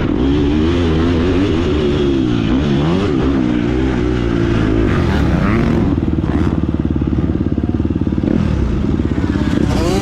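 2019 KTM 250 SX-F four-stroke single-cylinder dirt bike engine being ridden hard, its revs rising and falling repeatedly. A little past the middle it drops to a low, even putter for a few seconds, then climbs again near the end.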